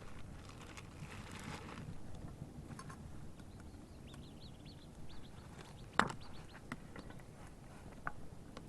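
Camp gear being handled and put away: rustling and a few light knocks, the sharpest about six seconds in. A bird chirps a quick run of short notes around four seconds in.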